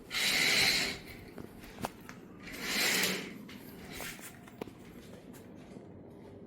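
Two rasping zipper pulls about two seconds apart, each under a second, with a few light clicks and knocks between them as a bag is handled.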